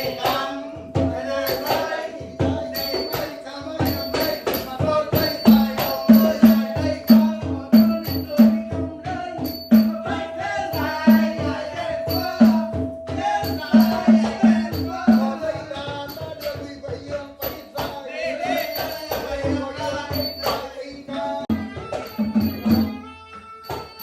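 Traditional Nora music: a fast, dense rhythm of drum strokes, sharp clicks and small cymbal rings over a long held melody line.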